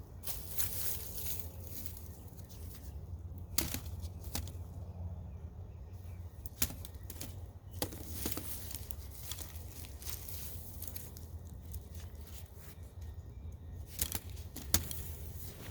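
Rustling and scraping of soil and plant foliage as a potato mound is dug up, with several sharp snaps or clicks scattered through it.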